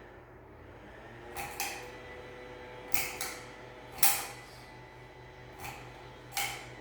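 A series of sharp knocks and clacks from ceiling-fan parts being handled and fitted, about seven in all, some in quick pairs and the loudest about four seconds in, over a low steady hum.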